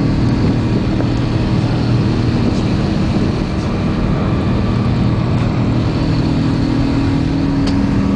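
Airbus A380 cabin noise during the climb just after takeoff: a steady rush of engine and airflow noise over a low, even hum of several steady tones.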